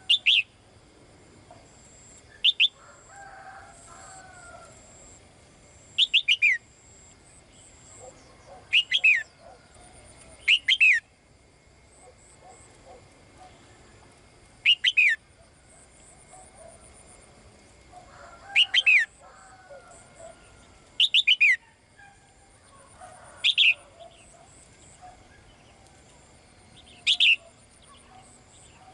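A caged songbird's calls: loud, short, falling chirps, single or in quick runs of two to four, repeated every two to four seconds, with fainter warbling in between. It is a female bird calling to a male.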